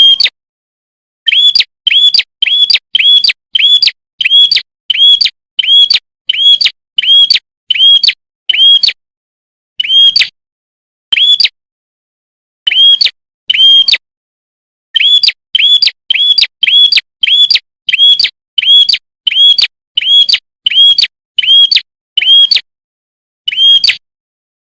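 Prenjak kepala merah songbird repeating one short, sharp, high chirp over and over, about one to two a second, with a few brief pauses.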